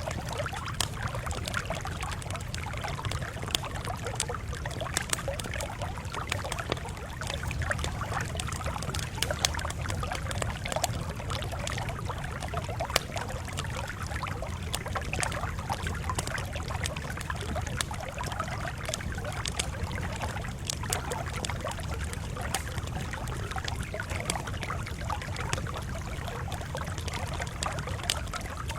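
Campfire crackling: a steady low rumble under frequent sharp pops and snaps.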